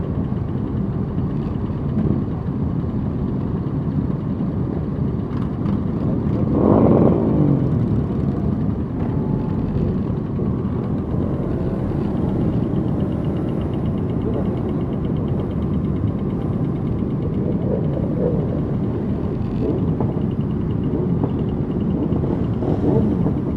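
A group of motorcycle engines running steadily at low speed, with one engine revving up and back down about seven seconds in and a few shorter revs near the end.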